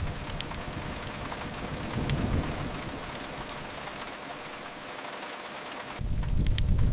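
Steady hiss of rain, with a low rumble swelling briefly about two seconds in. Near the end a deep rumble and sharp crackling pops of a fireplace cut in abruptly.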